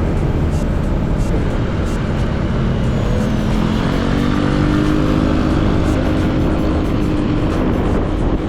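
Motorcycle ride heard on an action camera's built-in microphone: steady wind rumble and road noise over a running engine, with an engine note rising in pitch about four seconds in.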